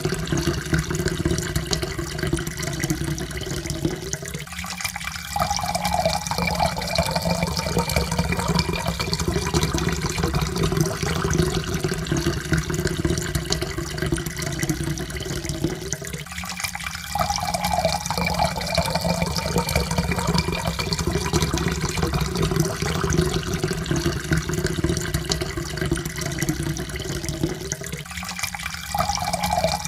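Water pouring steadily into a cup, with a faint tone that rises in pitch as the cup fills. The pour breaks off briefly and starts over about every twelve seconds, three times in all.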